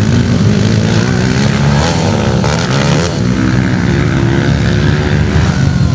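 Motocross dirt bike engines running loud, revving so the pitch rises and falls.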